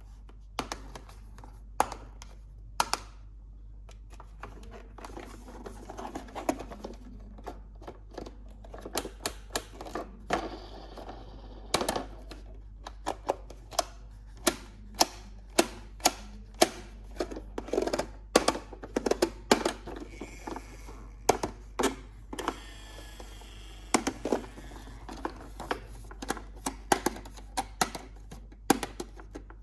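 Plastic toy parts and packaging being handled for unboxing: many irregular sharp clicks and taps, with short stretches of rustling twice.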